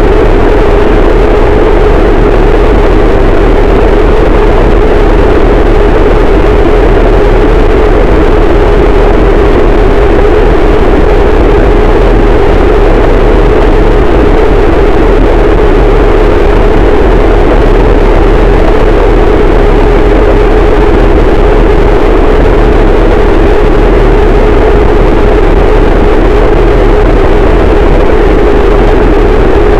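Harsh noise wall: a very loud, unchanging wall of distorted static with a steady band of hum in the lower middle and a deep rumble underneath.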